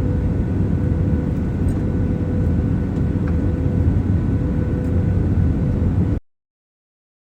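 Steady pink noise, a deep even rush with a few faint steady tones in it, cutting off abruptly about six seconds in to dead silence.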